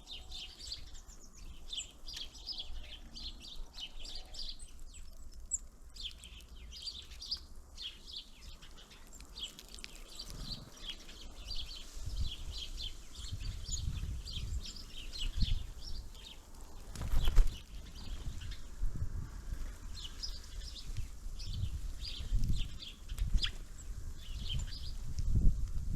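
Many small songbirds at a bird feeder giving short, high chirping calls in quick succession. From about halfway in come low thumps, with one loud knock about two-thirds of the way through.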